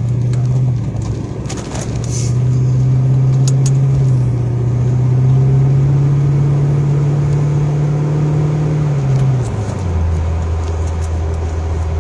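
Car engine heard from inside the cabin while driving, its drone climbing in pitch in steps as the vehicle accelerates, then dropping abruptly to a lower steady drone about nine and a half seconds in.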